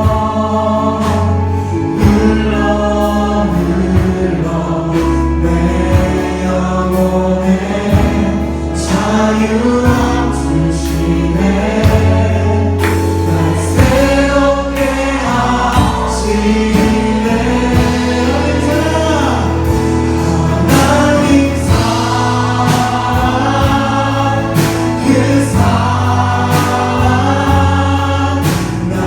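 Youth worship band playing and singing a contemporary praise song: a group of voices singing together over a band with bass and drums keeping a steady beat.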